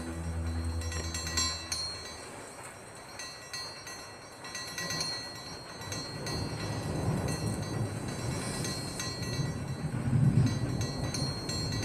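Background music fades out in the first two seconds, then thunder rolls in as a low rumble that swells twice, the second time louder, near the end.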